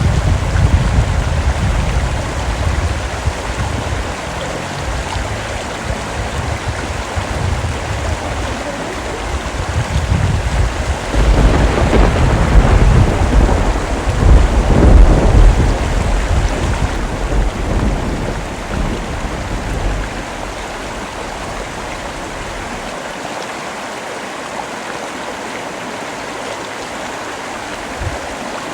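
Steady rain with rolling thunder. The rumble swells around the middle and dies away about two-thirds through, leaving only the rain.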